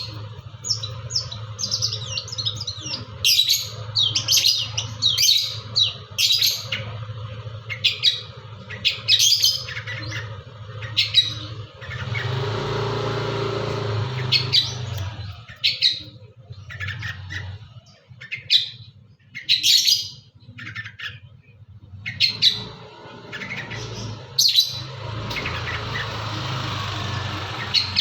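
Long-tailed shrike (pentet) singing hard: a rapid string of short, sharp, varied high notes, its song full of fill-in phrases mimicked from other birds. A steady low hum runs beneath, and an even rushing noise comes in twice, once around the middle and again near the end.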